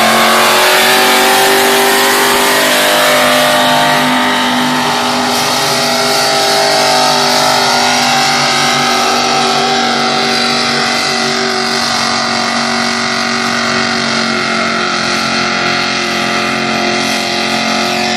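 Tractor engine at full throttle pulling a sled in a tractor pull, held at high revs under load with a nearly steady pitch.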